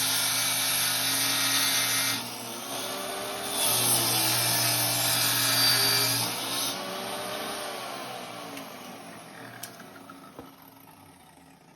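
Electric power tool running in two long bursts, each a few seconds, then its motor winding down slowly with a falling pitch over the last several seconds.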